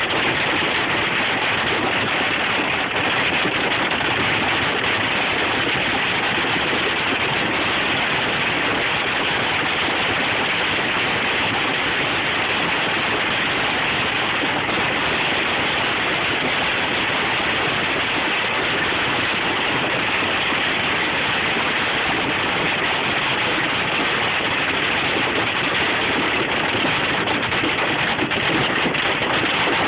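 Hail and rain pelting a vehicle in a dense, steady patter that does not let up.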